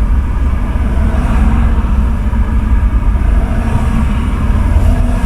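Ford F-350 pickup truck driving, heard from inside the cab: a steady low rumble of engine and road noise.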